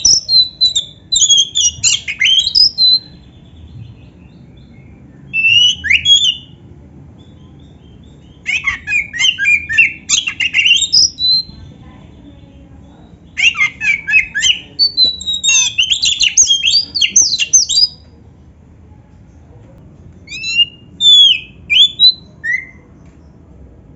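Oriental magpie-robin (kacer) singing a loud, varied song of quick whistles and harsh chattering notes, with phrases copied from canary song. It comes in five bursts separated by short pauses, over a steady low background noise.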